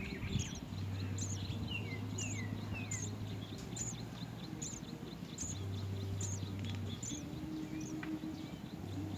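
Small birds chirping: short high chirps repeat about twice a second, with three quick downward-sliding calls about two seconds in, over a low steady hum.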